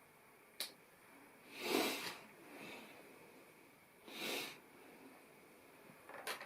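Two nasal breaths, each a noisy swell lasting about half a second, with a light plastic click before them and a few more clicks near the end.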